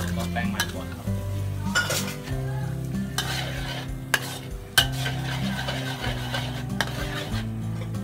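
Metal ladle scraping and knocking against a steel wok while stirring beaten egg into a thick, sizzling chilli-tomato sauce, with a handful of sharp clanks of metal on metal.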